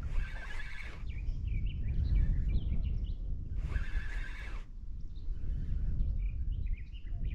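A bird giving a harsh, whinny-like call, three times about three and a half seconds apart, with faint chirps between, over a steady low rumble of wind on the microphone.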